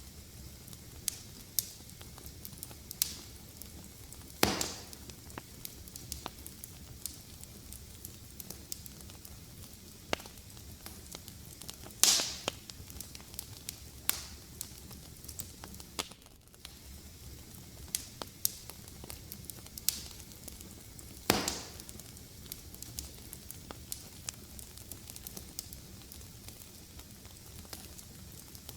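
Fire in a fireplace crackling steadily, with a soft hiss, many small snaps and three louder pops spread through.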